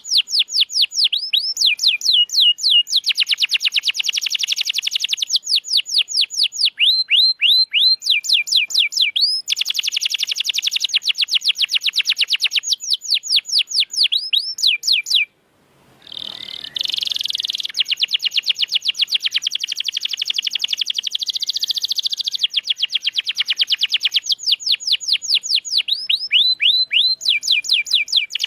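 Domestic canary singing a fast trilled song: runs of rapid repeated notes, each sweeping down in pitch, in phrases a few seconds long that switch from one trill to the next. The song breaks off for about half a second halfway through, then goes on.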